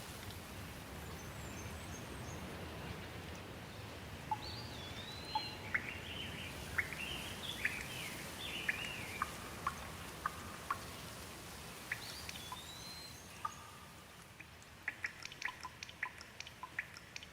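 Steady rain hiss with a bird calling over it in a run of rising and falling chirps, then again briefly. Near the end the rain thins and single water drops fall in quick, sharp drips.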